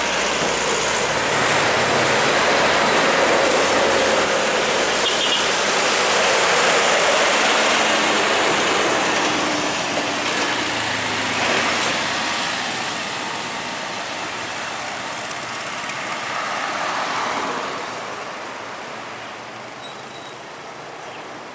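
Heavy trucks passing on a highway, engine and tyre noise loud at first and then fading steadily over the second half as they move away.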